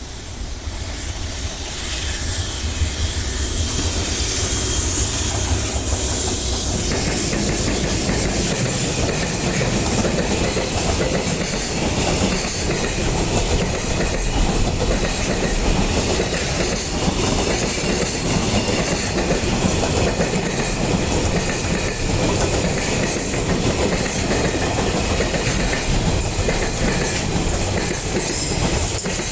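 Freight train passing close by, its wagon wheels clattering over the rail joints. It builds up over the first few seconds, then runs on steadily.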